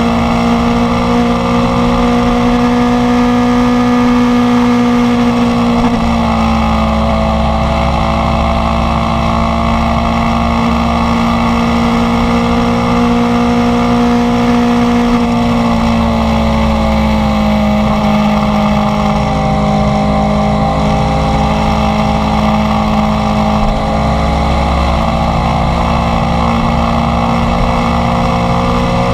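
Inline-four sport motorcycle engine running under way at a steady, fairly high engine speed. The pitch steps down slightly about six seconds in, then sags gently and climbs back between about sixteen and twenty-four seconds.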